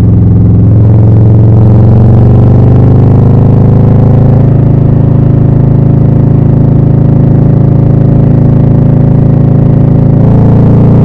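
2020 Harley-Davidson Low Rider S's Milwaukee-Eight 114 V-twin running loud through Rinehart slip-on exhausts, its pitch climbing over the first couple of seconds as it accelerates, then holding steady, with a shift in the engine note near the end.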